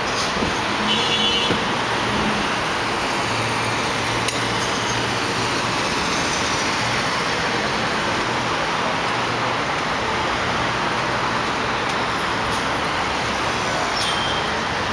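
Steady city street traffic noise with a low, even engine hum and a few brief clicks.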